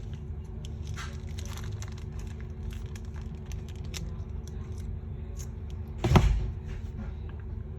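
Small clicks and taps of a phone being handled over a steady low hum, with one sharp knock about six seconds in as the phone is struck to open its side.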